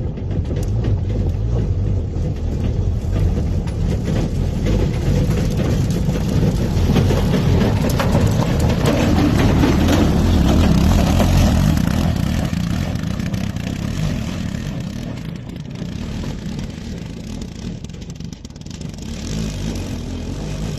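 Motor tricycle's engine running as the vehicle drives, a loud low rumble that swells to a peak about halfway through and then eases off.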